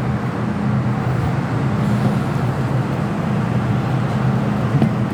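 MTR M-Train running, a steady rumble of wheels and motors heard from inside the carriage.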